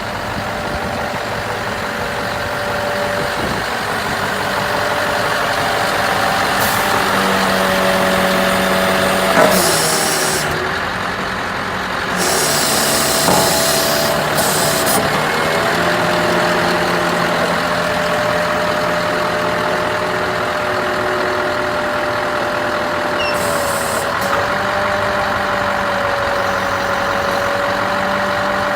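Scania R500 truck's V8 diesel engine running steadily, its note shifting in pitch for several seconds in the middle. Short bursts of compressed-air hiss come about ten seconds in, a couple of seconds later, and again near the end.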